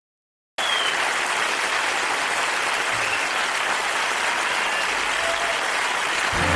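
Studio audience applauding, cutting in suddenly after a brief silence; music comes in right at the end.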